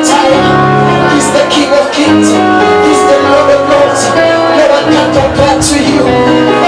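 Live church worship band playing: held keyboard chords over a changing bass line, with short bright splashes of sound every second or two.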